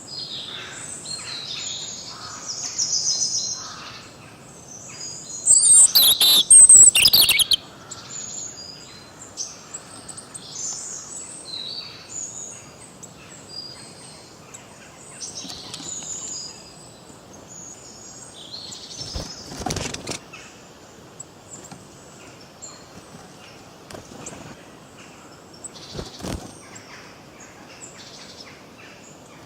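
Several small birds chirping and singing in short high phrases, with a much louder, close burst of calls about six seconds in. Two brief knock-like sounds come later.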